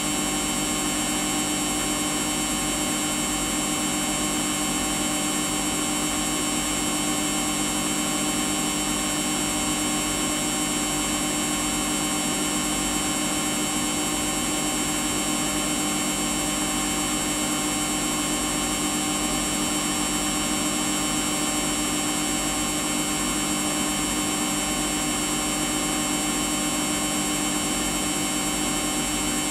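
Samsung washing machine running steadily: a constant hum with high whining tones that does not change.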